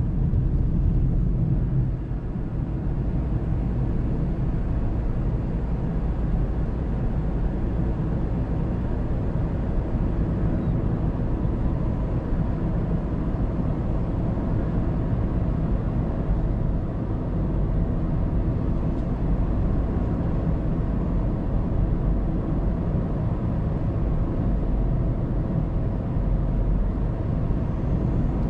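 A car driving steadily at road speed, heard from inside: a constant low rumble of tyre and road noise with the engine underneath, recorded by a dashcam.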